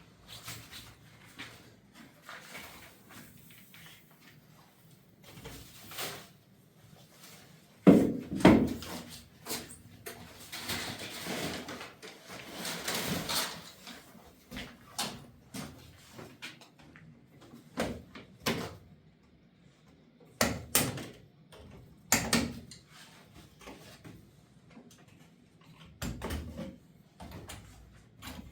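Irregular knocks and thumps, the loudest a pair about 8 seconds in, with a stretch of rustling in the middle.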